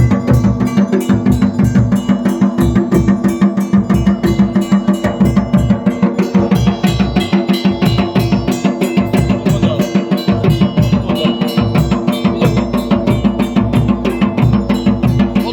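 Traditional drums beating a fast, steady rhythm, about four to five strokes a second, with steady held tones sounding underneath.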